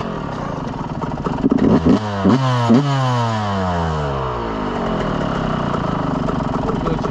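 Yamaha YZ125X two-stroke dirt bike engine at idle, blipped three times about two seconds in, then the revs sink slowly and settle into a steady, fast idle: the idle is set a little high.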